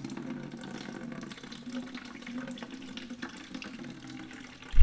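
Engine coolant pouring in a steady stream from a motorcycle's drain into a bucket, flowing freely now that the radiator cap is off and air can get in. A sudden low thump near the end.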